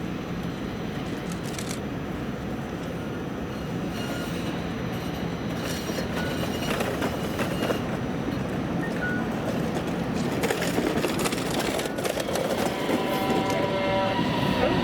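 Low-floor tram (light rail vehicle) approaching on street track, its low rumble growing steadily louder. There are scattered knocks partway through, and steady higher tones join near the end.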